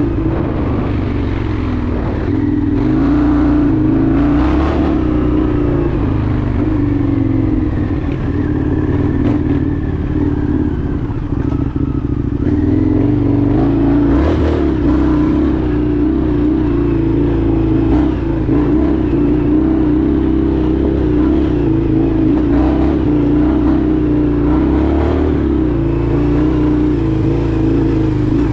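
Indian FTR 1200's V-twin engine running steadily while riding, its pitch rising and falling a little with the throttle.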